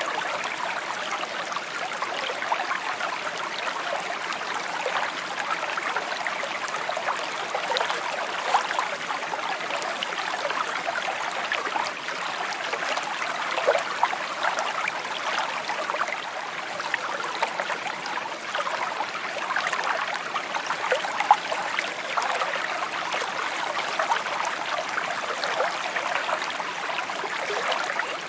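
A shallow stream babbling and trickling over stones, a steady flow with many small quick gurgles and splashes.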